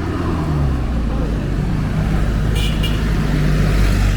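Busy street traffic noise with a vehicle engine running close by, a steady low hum, and a short high-pitched sound about two and a half seconds in.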